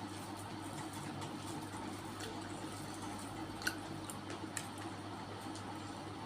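Wet chewing and mouth clicks of someone eating, a few small scattered clicks with a sharper one about three and a half seconds in, over a steady low hum.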